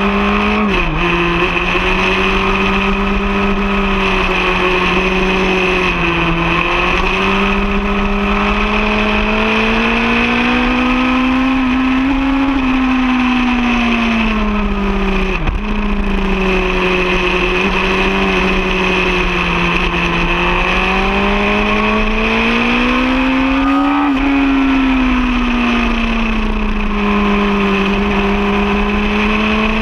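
Racing motorcycle engine running hard on track, heard from an onboard camera with steady wind rush. The engine note climbs and falls slowly with speed through the bends, with two brief sharp dips in pitch, about a second in and about midway.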